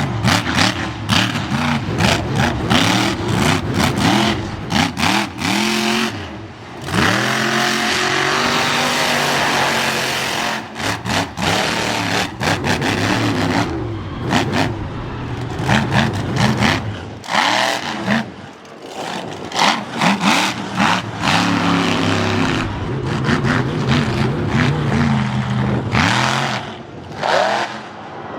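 Monster truck engine revving hard over and over, its pitch sweeping up and down with quick throttle blips and cut-offs, dropping briefly about a quarter and two-thirds of the way in.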